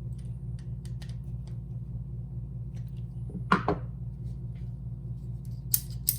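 Small clicks and a clatter of metal door-handle and lock parts being fitted back together by hand, the loudest clatter about halfway through and a few sharp clicks near the end, over a steady low hum.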